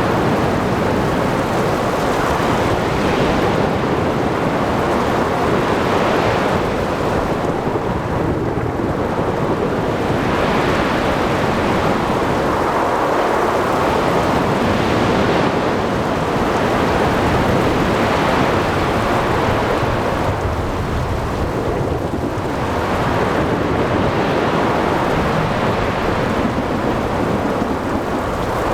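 Thunderstorm at sea: steady rumbling thunder over heavy rain, with waves and wind mixed in. The whole din swells and eases every few seconds.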